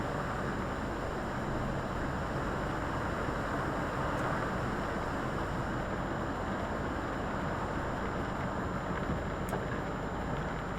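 Volvo FH articulated lorry driving, heard from inside the cab: a steady blend of engine hum and road noise with no changes in pace.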